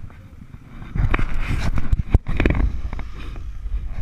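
Off-road motorcycle running close by, loud from about a second in and easing off near the end, with a sharp knock just after the middle.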